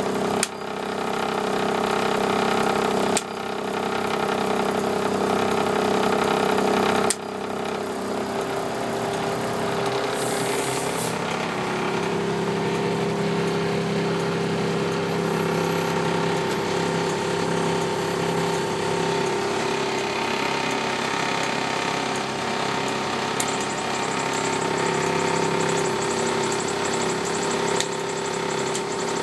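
International DT466 diesel engine running steadily, with sudden dips in level a few times in the first seven seconds and a brief hiss about ten seconds in.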